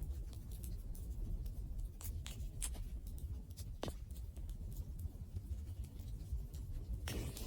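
Wood fire burning: irregular crackles and sharp pops over a low, steady rumble of flames. Near the end comes a brief denser flurry of crackling.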